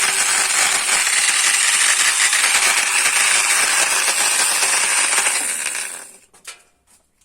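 Electric multi-tool running at speed, then switched off about six seconds in and winding down, followed by a few light clicks.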